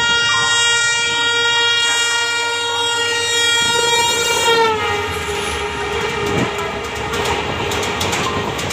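Express train passing at high speed: the EMD diesel locomotive's multi-tone horn blares steadily, then drops in pitch about four and a half seconds in as the locomotive goes by. The rush of the coaches follows, with rapid clickety-clack of wheels over the rail joints.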